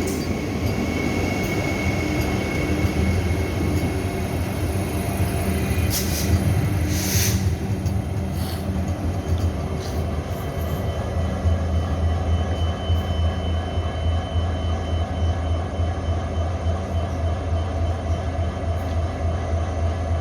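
A train running, with a steady low hum and rumble throughout and two short hisses about six and seven seconds in.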